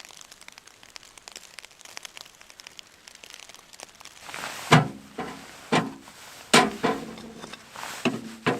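Footsteps crunching and squeaking in deep, cold snow, roughly one step a second, starting about halfway through after faint crackling.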